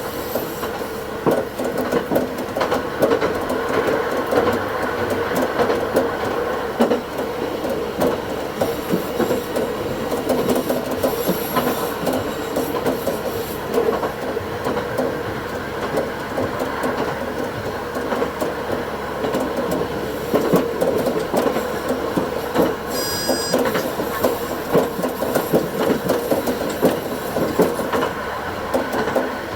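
Diesel railcar running along the line, heard from the cab, sped up to double speed: a steady engine and rolling noise with frequent clicks of the wheels over the track. A brief high wheel squeal comes about three quarters of the way through.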